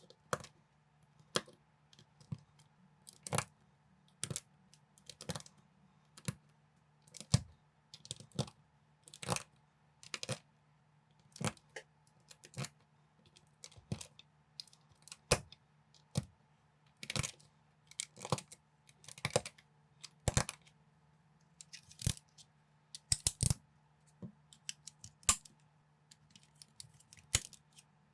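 Plastic building bricks clicking as pieces are handled and pressed together, with sharp irregular clicks about once or twice a second over a faint steady low hum.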